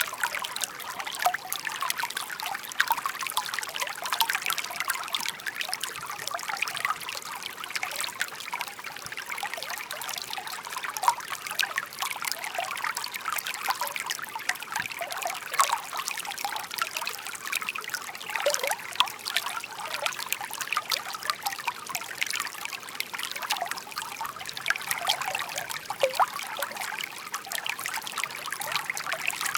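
Shallow stream babbling and trickling: a steady splashy rush of water with many small quick splashes.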